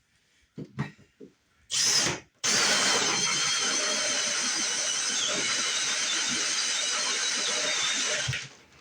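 Power tool running: a short burst about two seconds in, then a steady run of about six seconds that stops sharply near the end. A few light knocks come before it.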